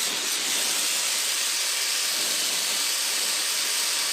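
Brazing torch flame hissing steadily while it heats a joint in copper HVAC line.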